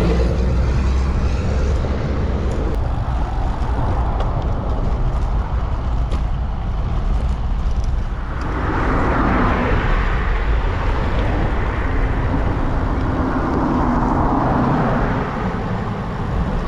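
Road traffic passing alongside a moving bicycle, under a steady low rumble. Two vehicles swell up and go by, one about halfway through and another a few seconds later with a steady engine hum.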